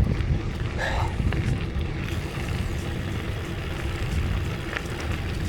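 Steady low wind rumble on the microphone while riding a bicycle, with road noise.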